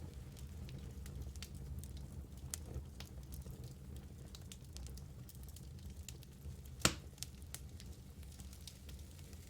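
Burning logs in a fireplace crackling: scattered small pops and clicks over a low steady rumble, with one louder pop about seven seconds in.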